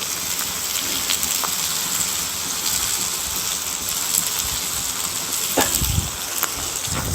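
Sea bass sizzling as it grills over a wood fire: a steady hiss dotted with sharp crackles from the burning wood, with a few low thumps near the end.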